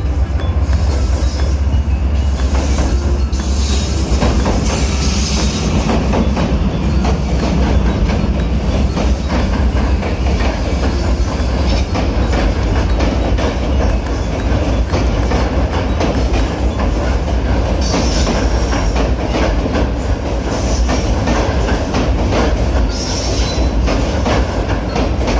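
Loud passing train: a steady heavy rumble with a rapid, continuous clatter of wheels over the rails, and a few brief high screeches of wheel squeal.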